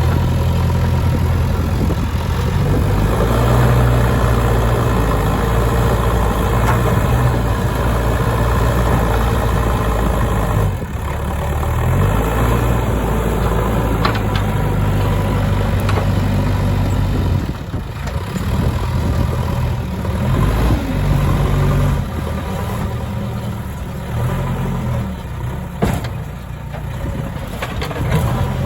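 Diesel engine of a JCB 3DX backhoe loader running steadily, its speed rising and falling several times as it works the loader, with an occasional knock.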